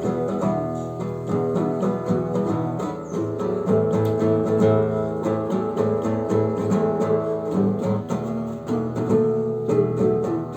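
Acoustic guitar strummed in a steady rhythm, an instrumental introduction to a song.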